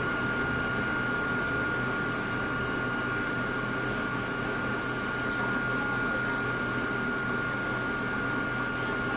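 Steady hum and hiss inside a Hakone Tozan Railway Moha 1 electric railcar, with a constant high-pitched whine throughout and no clicks or knocks.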